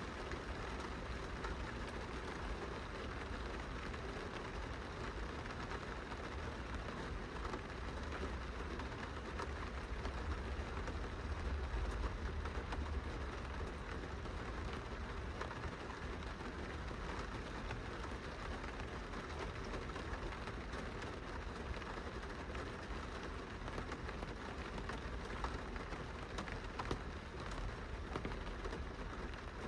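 Rain falling on a glass window: a steady hiss of drops with many small, irregular ticks, over a low rumble that swells slightly near the middle.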